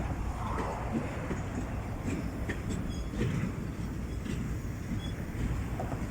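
A GT22LC-2 diesel locomotive shunting its train of drop-sided freight wagons. There is a steady low rumble of locomotive and rolling wagons, broken by scattered metallic knocks and a few brief high wheel squeals.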